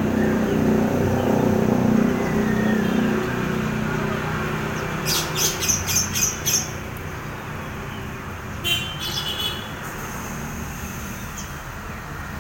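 A vehicle passing, its low engine rumble loudest in the first few seconds and then fading away. A bird then gives a quick run of about six high chirps around five seconds in, and a shorter run near nine seconds.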